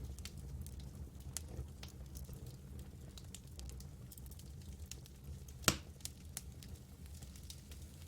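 Campfire burning, the wood crackling with scattered small snaps and one loud pop a little past the middle, over a steady low rumble.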